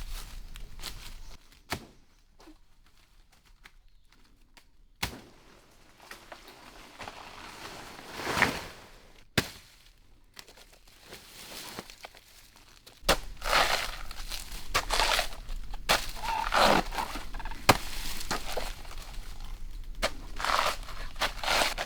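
Bamboo being cut and handled: a few sharp knocks on the stalks, then dense rustling and crackling of bamboo stems and leaves, which thickens about halfway through.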